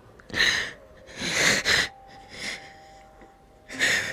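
A person crying: four ragged, breathy gasps and sobs, the second the longest.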